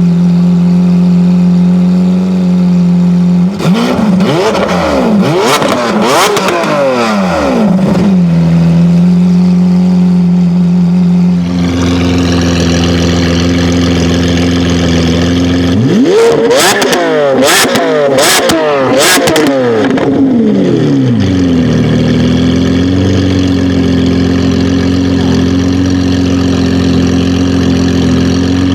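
Lamborghini Aventador V12 idling and revved twice while standing still. Each blip rises and falls in pitch with sharp cracks from the exhaust, then drops back to a steady idle. About halfway through, the idle changes to a higher, brighter tone.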